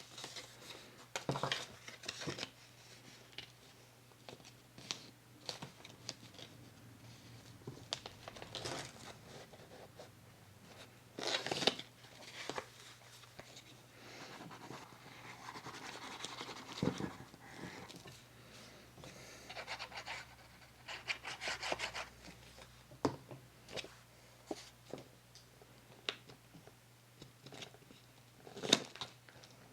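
Paper and card being handled on a work surface: intermittent rustling, rubbing and tapping with a few sharper clicks, loudest about a third of the way in and near the end.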